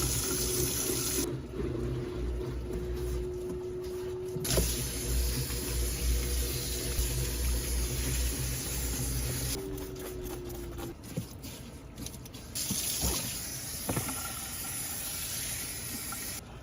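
Water running, with a faint steady whistle for the first few seconds and again about ten seconds in.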